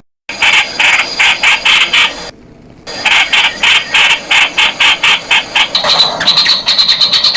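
Streak-eared bulbul (Pycnonotus blanfordi) calling: runs of sharp, rapidly repeated notes at about four a second. The runs break off briefly a couple of seconds in, and the notes turn higher-pitched near the end.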